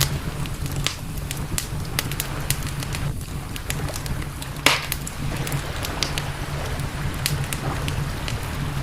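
Wood campfire crackling, with irregular sharp pops and one louder pop about halfway through, over a steady low rumble.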